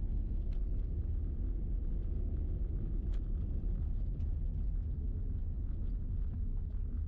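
Toyota Prius driving on a gravel logging road: a steady low rumble of tyres and road noise, with a few faint ticks.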